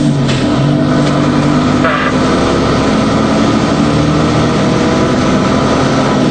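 DAF 75 truck's diesel engine running at a steady, unchanging pitch.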